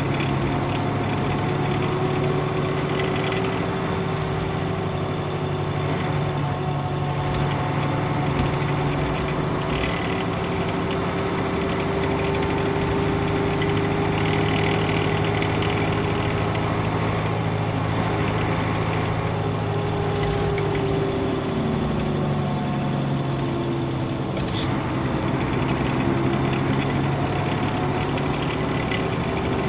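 Nissan Diesel UA bus (KL-UA452MAN) with its PF6HTA turbo-diesel six, heard on board while driving, running steadily. About two-thirds through, the engine note drops and then climbs again. Shortly after, a high hiss runs for a few seconds and ends with a click.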